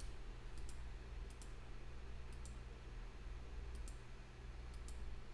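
Faint computer mouse clicks, several coming in quick pairs, over a low steady hum.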